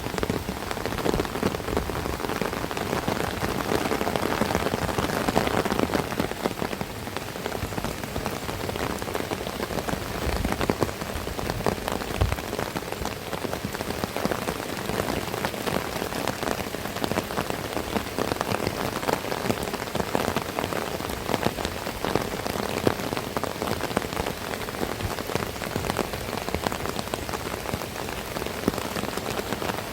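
Heavy rain pouring down, a dense, steady patter of drops hitting a surface.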